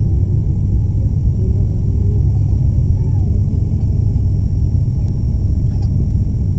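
Steady low drone of an ATR 72-500's twin Pratt & Whitney PW127 turboprop engines and propellers, heard from inside the passenger cabin.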